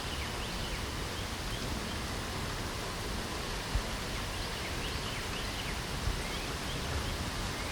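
Steady spring rain, with many small birds chirping briefly and repeatedly over it. Two soft low thumps come a little after the middle and later on.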